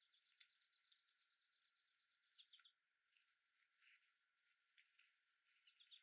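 A small songbird singing a fast, high trill of evenly repeated notes for about two and a half seconds, ending in a few lower notes, followed by scattered short chirps and a brief falling run of notes near the end. Faint.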